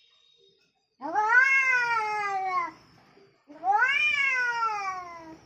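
An angry domestic cat giving two long, drawn-out meows, each rising quickly in pitch and then sliding slowly down, about a second in and again past the halfway point.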